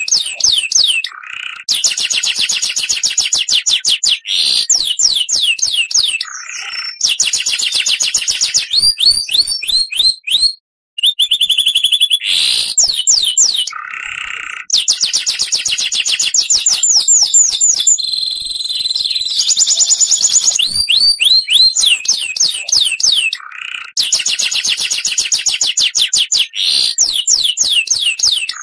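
Oriental magpie-robin (kacer) song: fast runs of rapidly repeated sweeping whistle notes, broken by short lower rasping notes and brief pauses. There is a sudden break about 11 seconds in, as in a looped or edited recording.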